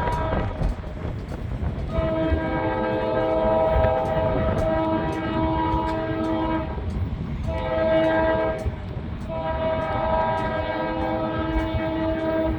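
Diesel locomotive's multi-chime air horn sounding a long blast, a short one, then another long one, the close of the long-long-short-long grade-crossing signal. A steady rumble from the train runs beneath it.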